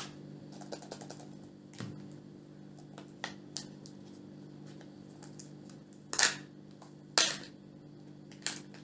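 Small plastic clicks and rustles of a Kinder Joy egg and its toy capsule being opened by hand, with two louder sharp cracks about six and seven seconds in, over a steady low hum.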